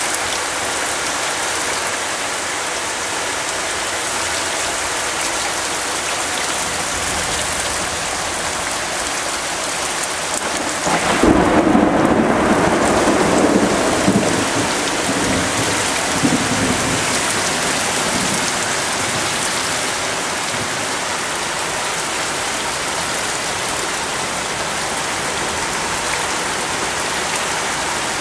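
Heavy thunderstorm rain pouring down steadily. Partway through, a loud thunderclap breaks in and rolls on for several seconds, with a couple of further cracks, before fading back under the rain.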